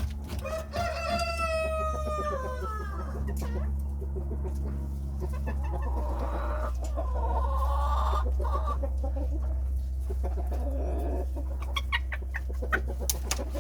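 Chickens calling: one long drawn-out call falling slightly in pitch near the start, then more clucking calls in the middle, over a steady low hum.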